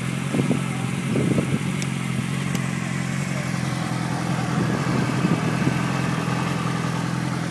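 Sport bike's inline-four engine idling steadily, with a couple of brief louder sounds in the first second or two.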